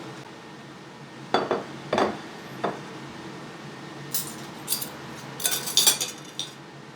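Cutlery and dishes knocking and clinking: three separate knocks in the first half, then a quick run of bright clinks near the end, over a steady low hum.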